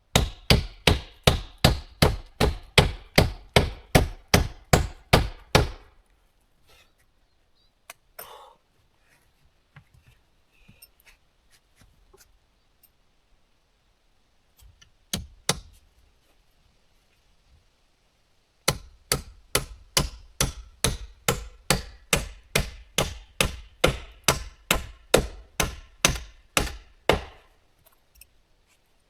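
Rapid, even blows of a tool on wood, about three a second, in two long runs of some twenty strikes each, with a single strike between them.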